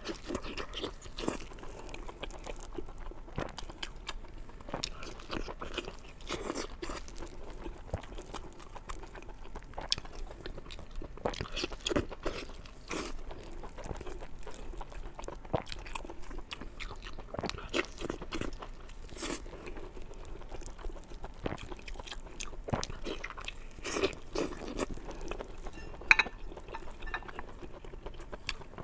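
Close-miked eating: a person biting and chewing food, with frequent irregular crunches and mouth clicks.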